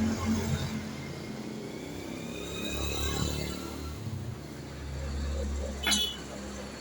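Motorcycle engine running, with its low sound swelling twice as it is revved and a faint rising whine above it. A sharp click comes near the end.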